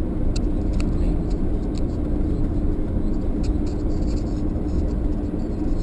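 Steady road and engine noise heard from inside a moving car's cabin, with a low, even rumble and a steady hum.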